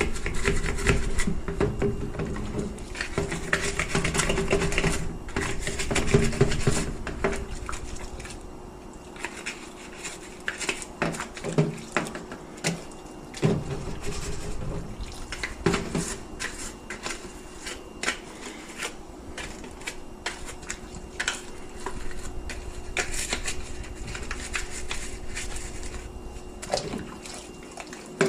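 Water spraying and splashing over dishwasher parts for the first several seconds, then quieter, with repeated clicks and knocks of the parts being handled.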